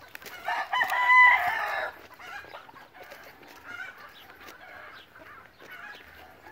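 A loud bird call with a steady pitch, lasting about a second and a half and starting about half a second in, followed by fainter repeated calls amid footsteps on the field.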